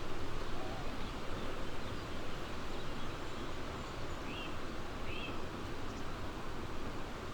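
Steady rushing outdoor background noise, with a small bird giving two short high chirps about four and five seconds in.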